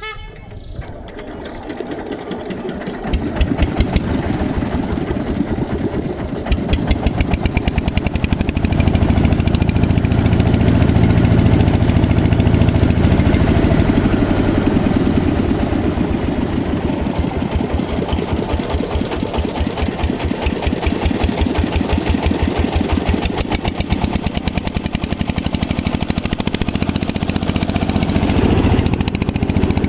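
A boat's engine running with a fast, even pulse of firing strokes. It builds up over the first few seconds, then runs steadily and loud.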